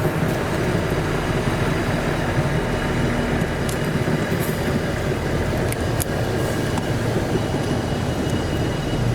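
A train running by with a steady rumble and a few sharp clicks from the wheels on the rails.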